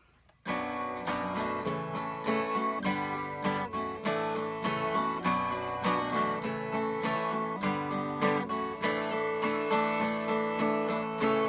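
Acoustic guitar strummed in a steady rhythm, several strokes a second, starting suddenly about half a second in: the instrumental intro of a country song before the vocal comes in.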